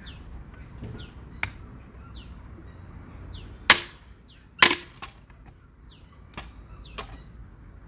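Irregular sharp chopping strikes of a blade biting into wood, about six of them, the two loudest near the middle. A bird repeats a short falling call over and over behind them.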